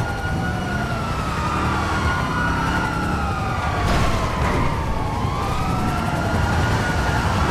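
Several police sirens wailing at once, their slow rising and falling pitches overlapping, over a steady low rumble of engine and road noise.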